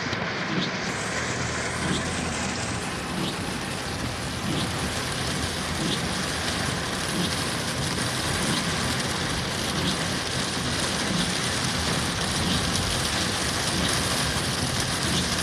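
Heavy rain pelting a car while it is driven, over steady road and engine noise. A faint tick repeats about every second and a half.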